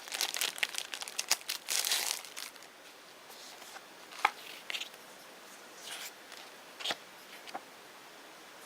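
Packaging and paper inserts crinkling as they are handled, densely for the first two and a half seconds, then only a few scattered rustles and light taps.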